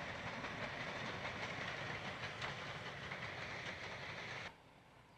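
Diesel locomotives running along the track with a steady rumble, wheel noise and a few clicks, cutting off abruptly about four and a half seconds in.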